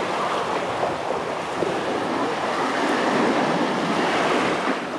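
Surf washing up a sandy beach, a steady rushing that swells about three seconds in and eases off near the end.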